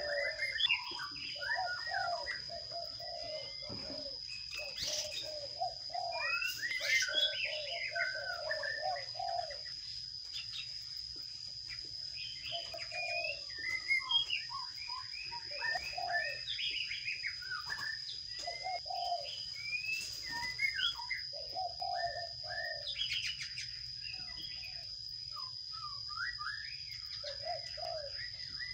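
Small birds chirping and twittering in many short, quick notes, with lower clusters of repeated notes coming and going, over a steady high-pitched whine.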